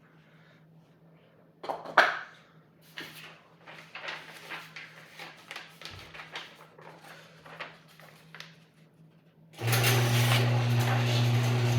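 Scattered handling clicks and rustles with a sharp knock about two seconds in, then near the end an electric appliance motor switches on suddenly and runs with a steady, loud low hum.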